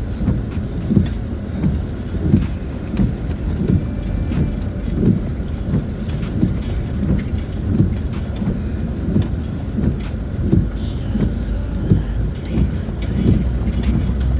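Cabin noise of a Land Rover Discovery 4 crawling over a rough, bumpy track: a steady low rumble broken by frequent irregular thumps and knocks as the wheels and suspension take the bumps.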